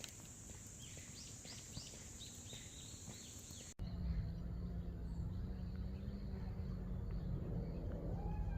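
Birds singing, a quick run of repeated falling chirps, over a steady high insect buzz. About four seconds in the sound cuts abruptly to a louder, steady low hum of outdoor ambience, with a faint bird call near the end.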